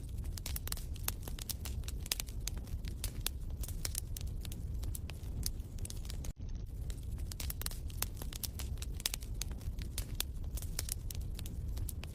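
Wood fire crackling in a fireplace: frequent sharp pops and snaps over a low steady rumble, with a brief dropout about six seconds in.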